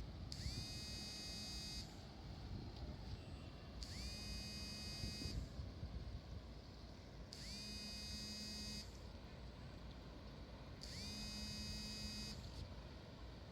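Faint electronic alarm tone sounding in repeated pulses, each about a second and a half long and slightly rising in pitch as it starts, coming about every three and a half seconds over a steady low background rumble.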